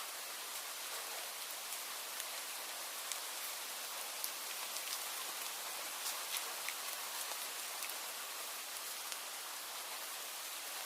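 Steady rain: an even hiss with many scattered, irregular drop ticks from drops striking a surface.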